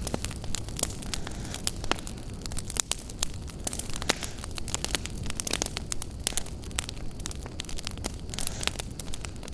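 Wood fire crackling in a fireplace: many sharp pops and snaps, several a second, over a steady low rumble.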